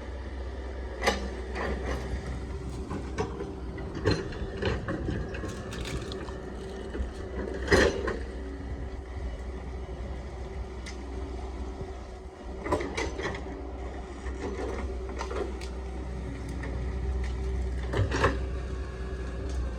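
Hydraulic excavator's engine running steadily, with scattered knocks and clicks as the machine works.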